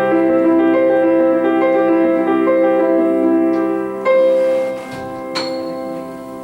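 Piano playing the closing bars of a slow piece, ending on a chord struck about four seconds in that rings and fades, with one last high note after it.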